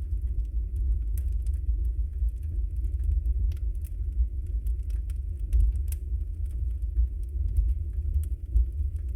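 Wood logs burning in a fireplace: a steady low rumble of the flames with many small scattered crackles and pops.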